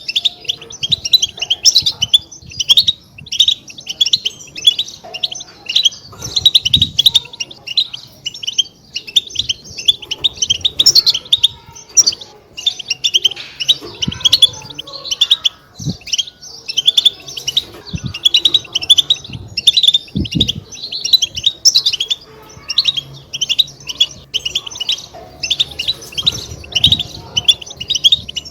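European goldfinch chatter: a dense, unbroken stream of quick high twittering chirps, the 'batbata' call used to stir caged goldfinches into song. A few faint low thumps sound underneath.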